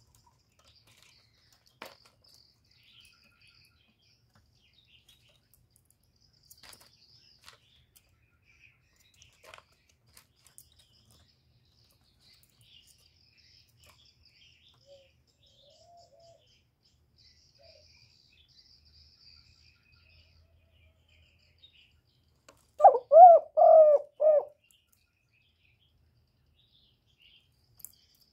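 Spotted dove cooing: one loud phrase of about four coos near the end, with faint high chirps of small birds throughout.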